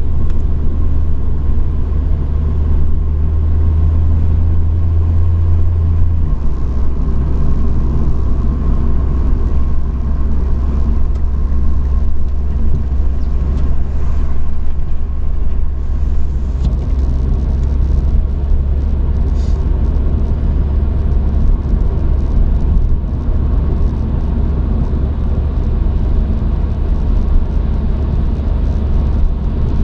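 Truck engine and road noise heard from inside the cab: a loud, steady low rumble while driving, its drone shifting slightly about six seconds in.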